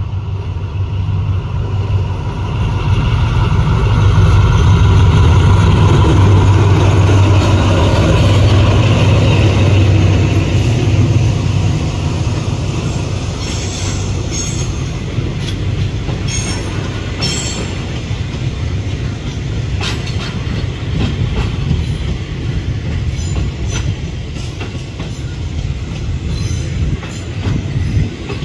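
A diesel-electric locomotive passes close by, its engine drone loudest about four to ten seconds in and falling in pitch as it goes by. The coaches then roll past with wheels clacking over the rail joints and brief high squeals on the curve.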